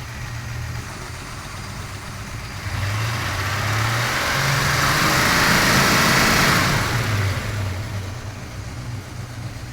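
Chevrolet V8 with HEI ignition idling, then revved up about three seconds in, held at raised speed for several seconds and let fall back to idle. The engine is running properly on its newly repaired ignition, and the rev is brought up toward about 2,500 rpm to make the dwell expand.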